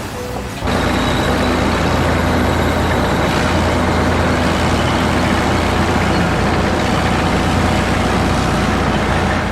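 Heavy machine engine running steadily with a deep, even hum. It comes in sharply about half a second in, after a brief quieter moment.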